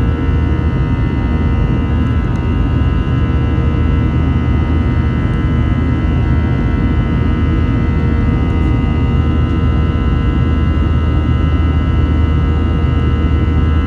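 Airbus A321 jet engines heard inside the passenger cabin, running steadily: a deep rumble with a cluster of steady whining tones above it.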